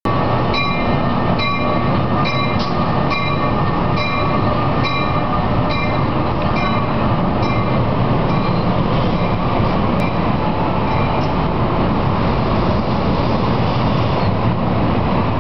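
NJ Transit train pulling out, its ALP-46 electric locomotive and bilevel Multilevel coaches rolling past: a steady rumble of wheels on rail. Short ringing clicks repeat at a steady pace, a little faster than once a second, and die out about ten seconds in.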